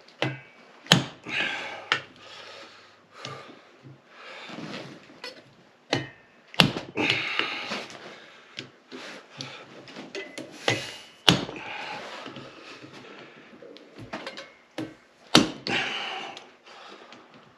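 Hand tools working on a seized Honda CB450 engine: four sharp metal knocks spread out over the stretch, each followed by a second or so of scraping and rattling, as stuck parts are struck and worked loose.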